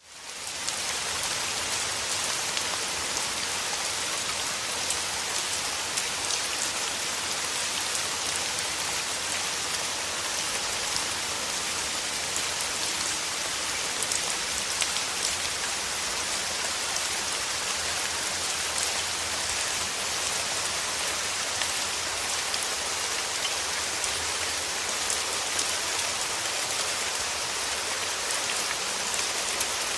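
Steady rain, a dense even hiss with the patter of individual drops, rising in from silence at the very start.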